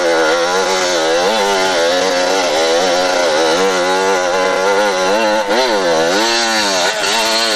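Motorcycle engine running loudly, its pitch rising and falling as the revs change, with a marked dip and pick-up about six seconds in.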